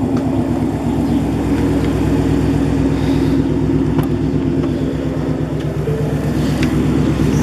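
2015 Ford Mustang GT's 5.0 V8 idling steadily through Stainless Works long-tube headers and a 3-inch exhaust with no catalytic converters, very loud with a fine, even pulse.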